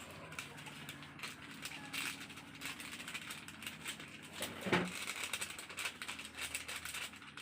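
Magic Sarap seasoning granules being shaken from their sachet onto the raw chicken: light rattling with many small ticks. A brief pitched sound comes about two-thirds of the way in.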